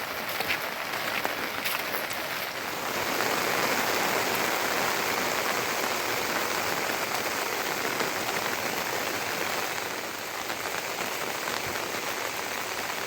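Steady rain falling, with a few sharp drip ticks in the first couple of seconds, then an even, dense patter that swells slightly and holds.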